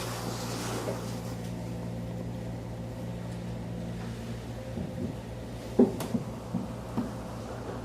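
Inside a JR 211 series electric train car: a steady low hum from the train, with a few light knocks about six and seven seconds in.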